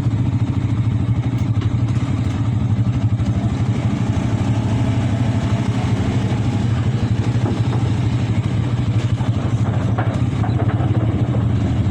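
Vehicle engine running steadily under way, a continuous low pulsing hum with road noise over it.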